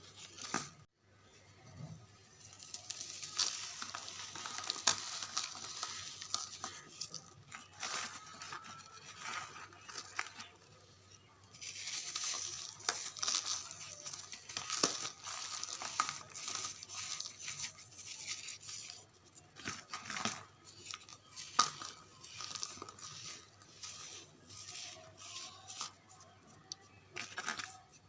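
Pressed charcoal bars being crumbled: a dense, crunchy crackling full of sharp little snaps in two long spells, thinning to scattered crunches and snaps in the later part.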